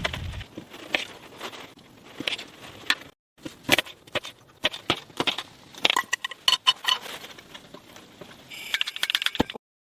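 Irregular crunches, clicks and small metallic clinks, with a couple of abrupt silent breaks.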